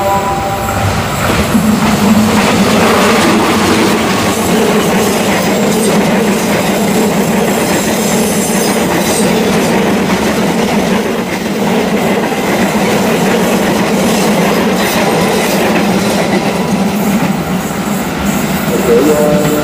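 Passenger train hauled by a diesel locomotive passing close by on a sharp curve: a loud, steady rumble of engine and wheels with rapid wheel clatter over the rail joints. Some high wheel squeal from the curve comes around the middle.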